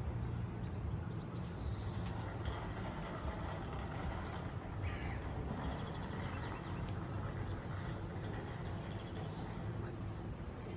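A steady low engine hum, with birds calling now and then over it.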